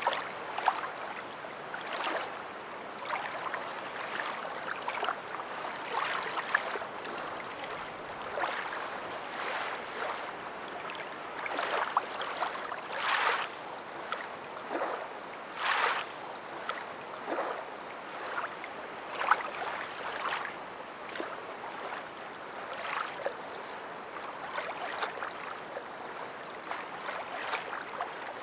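Water lapping and splashing in irregular washes, one every second or two, over a steady hiss.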